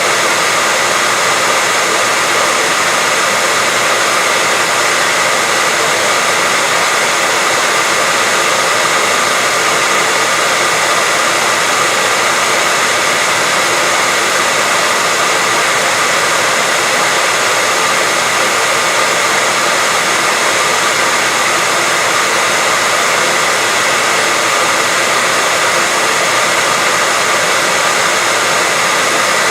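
Steady white noise: an even, unchanging hiss weighted toward the high end, with a faint steady tone near 2 kHz running through it.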